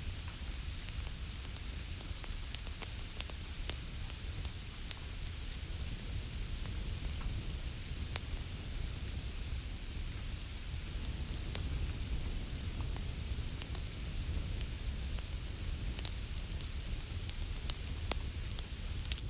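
Fireplace fire crackling with scattered sharp pops over a steady hiss of falling rain, with a constant low rumble underneath.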